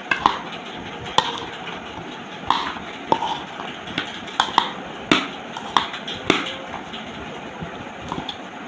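Aloo kabli (boiled potatoes and peas with onion, spices and mustard oil) being mixed in a bowl, with irregular light knocks against the bowl, about one or two a second.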